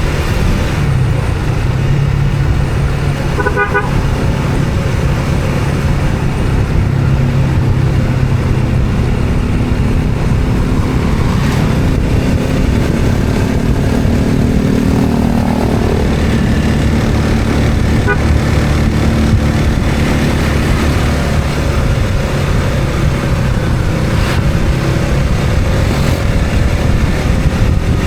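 Road traffic heard from a moving vehicle: an engine running steadily under continuous road noise, with a short car horn toot about three and a half seconds in.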